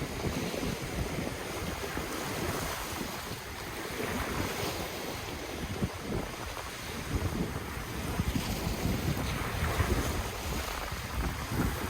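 Ocean waves washing in steadily, with gusty wind buffeting the microphone in a low rumble.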